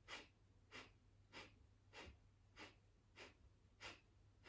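Kapalabhati breathing: a person pumps out short, sharp exhalations through the nose, a faint whoosh about every 0.6 seconds, seven in a row. The breaths are even and rhythmic, each exhale driven by a quick inward contraction of the belly.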